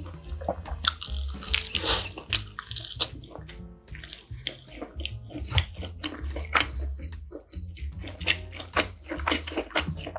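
Close-miked chewing of a mouthful of deep-dish pizza: a rapid, irregular run of small wet clicks and smacks.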